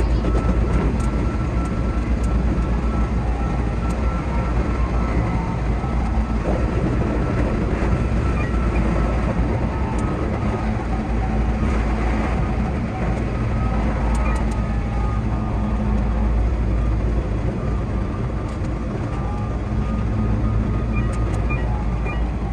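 Keihan 8000 series electric train running at speed, heard from inside the driver's cab: steady running noise with a thin whine and scattered clicks from the wheels on the rails. About halfway through, another train passes on the adjacent track.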